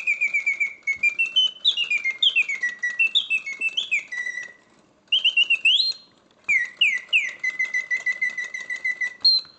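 Karl Griesbaum mechanical singing bird cage singing: its wood-and-leather bellows drive a whistle through loud, clear phrases of rapid trills and rising and falling whistled notes, broken by two short pauses about halfway through. The mechanism itself runs quietly under the song.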